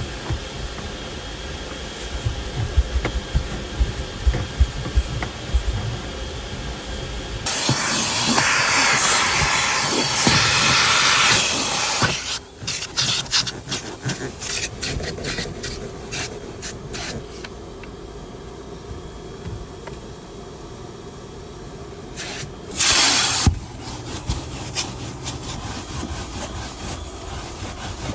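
Car interior being scrubbed and wiped, irregular rubbing strokes. A loud hiss runs for about four seconds around a third of the way in, and a shorter one comes later.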